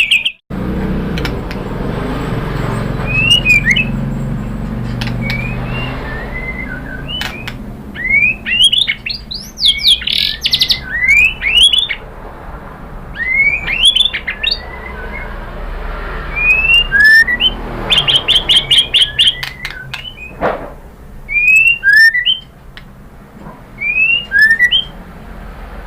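White-rumped shama singing a varied song of short rising whistles, with fast trilled runs about ten seconds in and again near eighteen seconds, and scattered sharp clicks.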